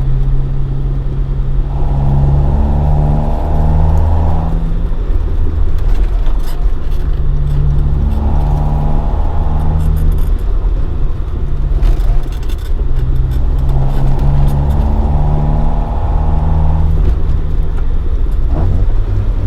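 Toyota AE86 Sprinter Trueno's swapped AE111 20-valve 4A-GE engine, breathing through individual throttle bodies and a Fujitsubo Legalis R exhaust, running on the road. Its note climbs in steps three times, about two, eight and fourteen seconds in, then drops back. A short clatter of clicks comes about twelve seconds in.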